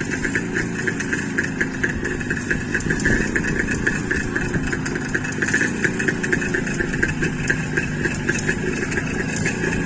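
Jawa motorcycle's two-stroke engine idling shortly after a cold start, still warming up.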